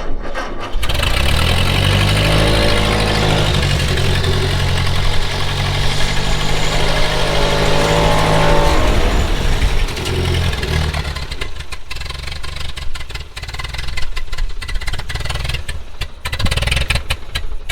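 Ford N-series tractor's four-cylinder flathead engine catching about a second in and running, its speed rising, then dropping around ten seconds in and running unevenly before picking up again near the end. It is running poorly, which the owner puts down to the carburetor after a rust-fouled fuel system, possibly still cold.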